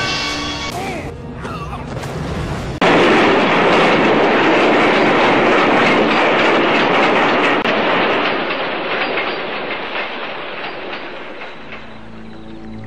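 A train rushing past: a sudden loud wash of rumbling noise starts about three seconds in, holds for several seconds, then slowly fades away under music.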